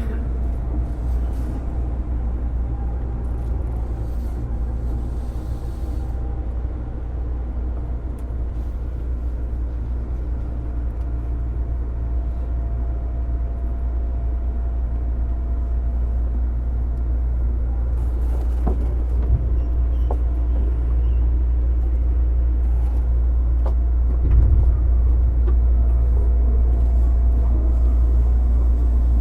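JR East 205 series electric train motor car with MT61 externally-fanned traction motors running, a steady low rumble with a faint steady tone above it. It grows gradually louder over the second half, with a few short sharp knocks.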